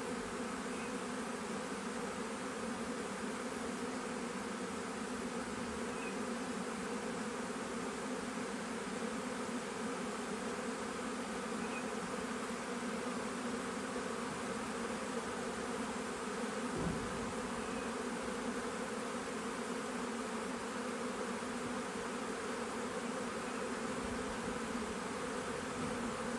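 A big honeybee swarm buzzing in a steady, dense hum as it moves into an empty hive box. A soft knock sounds once about seventeen seconds in.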